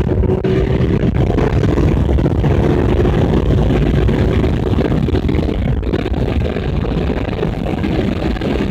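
Motorcycle engine running under way off-road, mixed with heavy wind rumble on the microphone.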